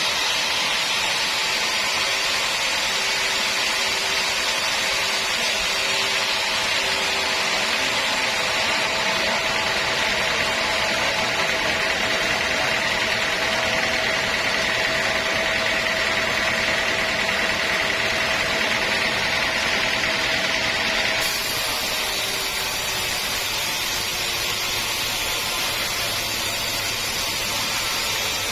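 Sawmill saw cutting through a teak log: a steady whine over machine noise, with a high tone that strengthens as the cut goes on. About three-quarters of the way through the cutting tone stops abruptly and a steadier machine hum is left.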